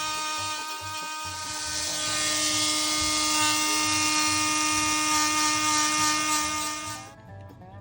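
High-speed handheld rotary tool running steadily on a rusted pocketknife blade, with a high whine over a hissing grind. It cuts off suddenly about seven seconds in.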